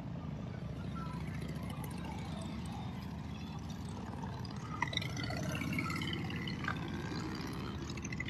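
Steady low outdoor rumble, with faint distant voices coming in about halfway through.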